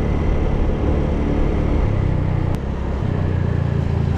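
Motorbike engine running steadily while riding, its hum shifting pitch a couple of times around the middle, with the rush of wind over it.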